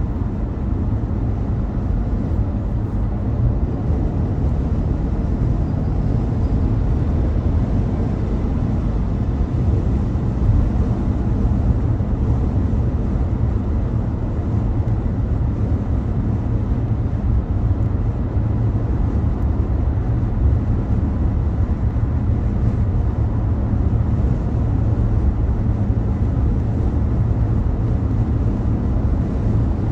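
A car driving along: a steady low rumble of tyre and road noise with the engine underneath, even throughout.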